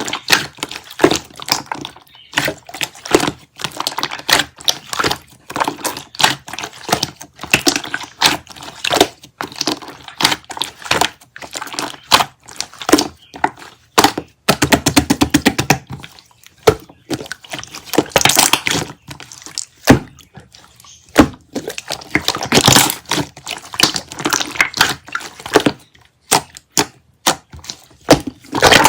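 Rapid, irregular clicks and knocks with crackling and crinkling, handled close to the microphone in a small room; denser crackling bursts come about a third and two thirds of the way through.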